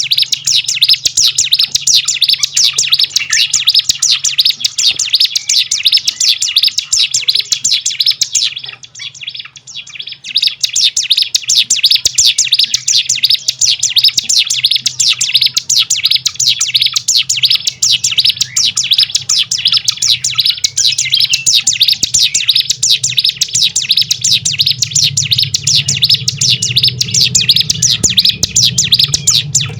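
Ciblek gunung (cigun) songbird singing a long, fast run of sharp, high chirps, many to the second, with a break of about two seconds a third of the way in before it resumes. A low steady hum runs underneath and grows louder near the end.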